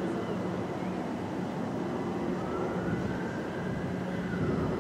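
Electric multiple-unit train running on the line, a steady rumble with a low hum; about halfway in, a motor whine rises and then falls away.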